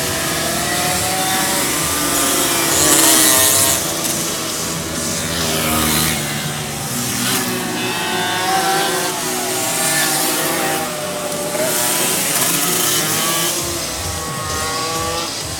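Car engines running at a motorsport event, their pitch rising and falling as they rev and change speed, with rushes of noise as cars pass, loudest about three seconds in.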